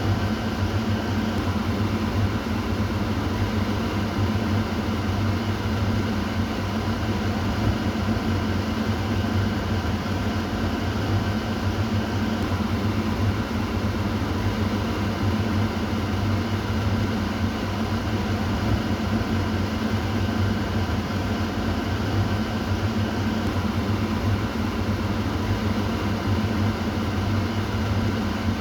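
Kitchen exhaust fan running steadily: an even rush of air over a constant low motor hum, unchanging throughout.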